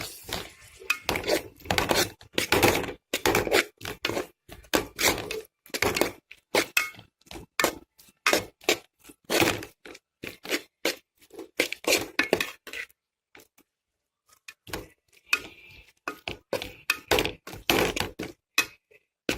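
A spoon stirring a sauce of onion, tomato and capsicum in a cooking pan: many irregular knocks and scrapes of the spoon against the pan, with a short pause about two-thirds of the way in.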